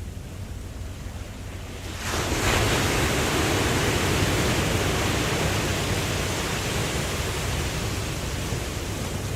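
Ocean waves: a low rumble of surf, then about two seconds in a wave breaks into a loud rush of water that slowly eases off.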